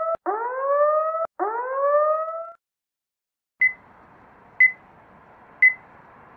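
Electronic whooping alarm sound effect: rising tones repeat about once a second and stop about two and a half seconds in. After a short pause come three short high beeps, one second apart, like a countdown.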